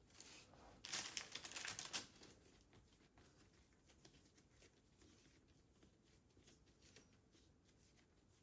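A brief burst of crinkly rustling, like something being handled or unwrapped, about a second in, followed by near silence with faint small ticks.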